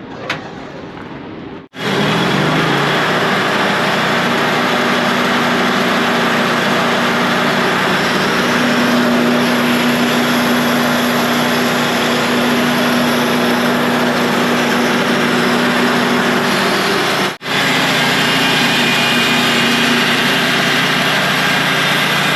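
Wood-Mizer portable band sawmill cutting a log: the band blade running through the wood with the mill's engine under load, a loud steady noise with a held hum. It cuts out abruptly for a moment about two-thirds of the way through.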